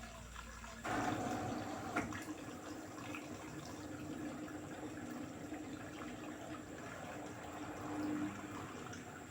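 LG direct-drive front-loading washing machine on a Cotton 60°C cycle, with water starting to rush through the machine about a second in and a steady low hum underneath.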